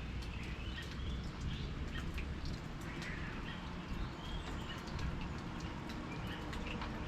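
Small birds chirping in short, scattered calls, over the pattering ticks of rain dripping and a low steady rumble.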